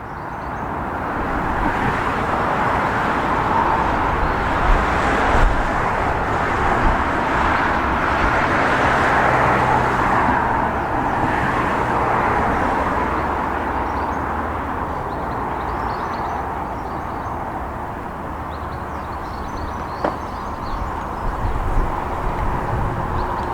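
A train running past, a steady rush of wheel and engine noise that swells over the first several seconds and then slowly eases, with a few knocks about five seconds in.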